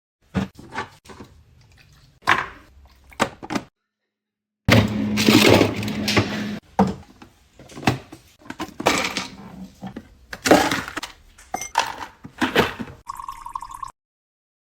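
Ice cubes popping out of a press-type ice cube tray and clattering, as a run of sharp knocks and rattles with a loud, dense burst of tumbling ice a few seconds in. A short steady tone comes near the end, and the sound breaks off twice into silence.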